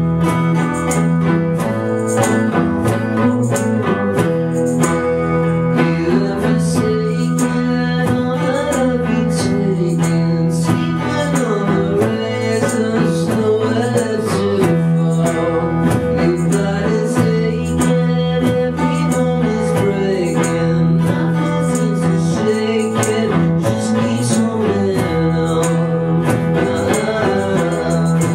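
Live rock band playing: strummed guitar over a steady beat, with a male voice singing the melody.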